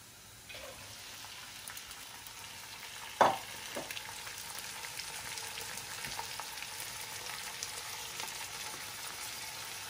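Lentils tipped into hot olive oil with sautéed onion and garlic, sizzling steadily from about half a second in. There is one sharp knock about three seconds in and a few lighter clicks.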